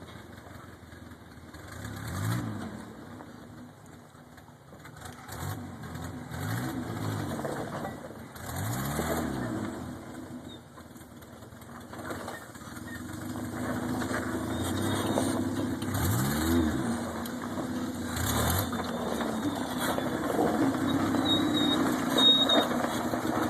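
A vehicle engine revving, its pitch rising and falling several times, then running louder and steadier in the last part.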